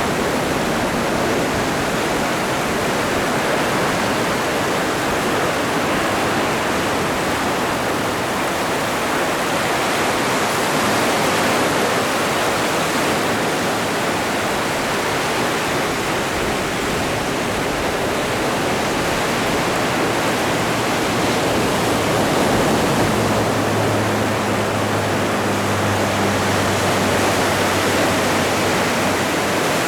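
Atlantic Ocean surf: a steady, continuous rush of breaking waves that swells and eases only slightly.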